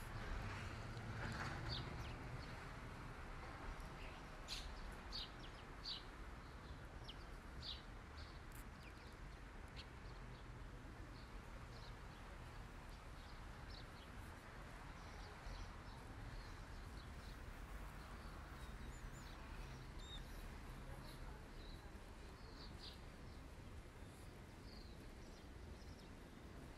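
Faint background ambience with scattered short, high bird chirps over a low steady hiss.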